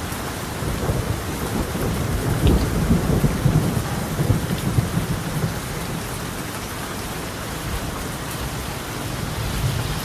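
Steady rain falling on a tiled roof, with a roll of thunder that swells about a second in and rumbles for a few seconds before fading.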